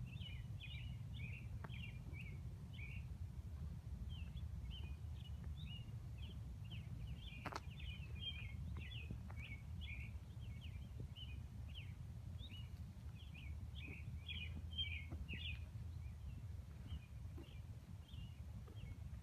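Small birds chirping in many quick short notes over a low steady rumble, with a single sharp click about seven and a half seconds in.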